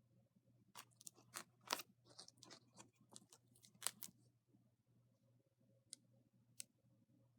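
Faint clicks and ticks: a quick run of a dozen or so over about three seconds, then two single clicks, over a low steady hum.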